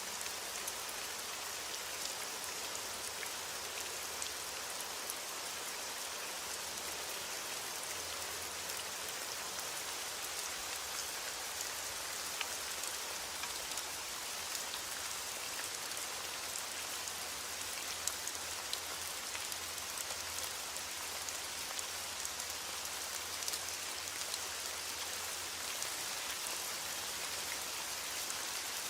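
Steady rain falling: an even hiss dense with small ticks of individual drops.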